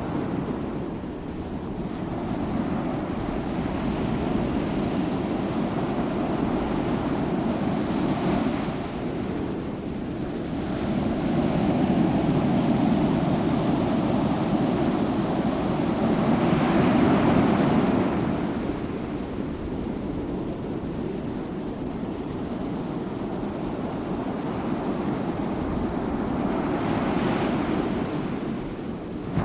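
Sea waves: continuous surf, swelling louder three times, roughly every nine seconds.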